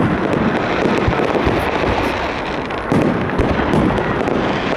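Fireworks salute going off close by: a dense, continuous crackle of bursting shells, with several deeper bangs standing out.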